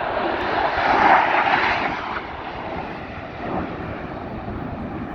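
Airplane engine roar as an aircraft flies past, swelling to its loudest about a second in and then fading away.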